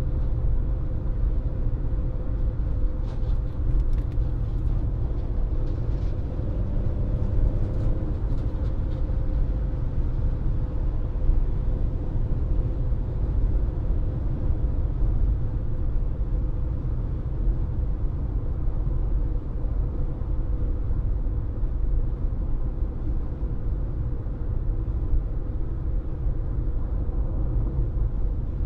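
A car being driven at a steady speed, heard as a continuous low rumble of road and engine noise with a faint steady hum.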